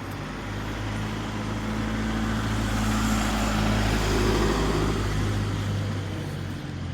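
A road vehicle passing by: steady engine hum under tyre and road noise that grows louder to a peak about three to four seconds in, then fades.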